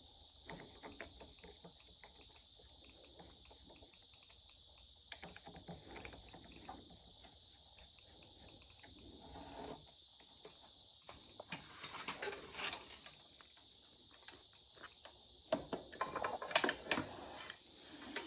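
Crickets chirping steadily at about two chirps a second, with scattered light clicks and knocks of hand tools on metal as handlebar fittings are taken off. The clicks get busier in the last few seconds.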